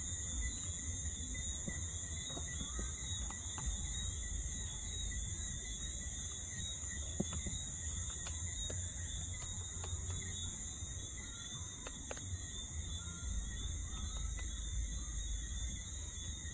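Steady high-pitched chorus of crickets or other night insects, with a low rumble underneath and a few faint clicks.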